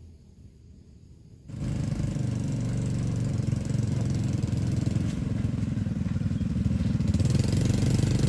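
A small engine running steadily with a fast, even pulse, starting abruptly about a second and a half in.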